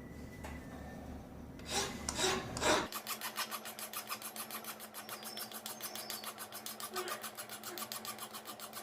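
Hand filing: a few slower, louder strokes, then quick, even back-and-forth rasping strokes at about five a second from about three seconds in. A low hum underneath stops as the fast strokes begin.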